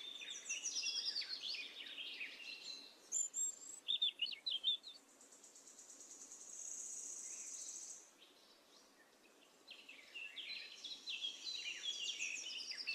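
Faint birdsong: small birds chirping in quick, high, descending runs, with a steady high trill lasting about two seconds in the middle.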